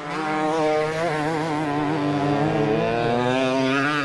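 Several vintage motocross motorcycles racing, their engines revving over one another with pitch rising and falling continuously.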